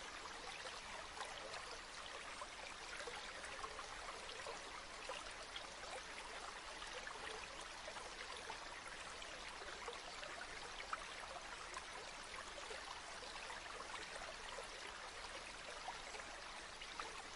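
Gentle river or stream flowing steadily, a continuous rush of water with many tiny splashes and trickles.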